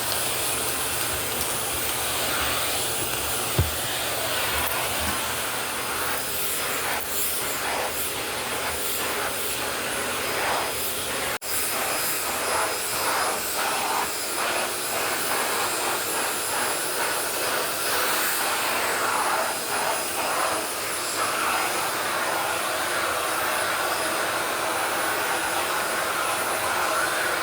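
Eureka Mighty Mite canister vacuum cleaner running steadily while being worked over a laminate floor, its sound wavering as the nozzle is pushed back and forth. A single sharp knock about three and a half seconds in, and a brief break just past eleven seconds.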